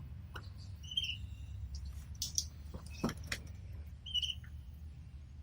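Pet canaries giving two short single chirps, about a second in and again near the end, with scattered sharp clicks between them over a steady low hum.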